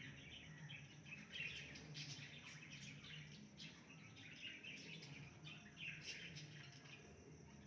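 Faint birds chirping: many short calls overlapping, with a faint low hum underneath.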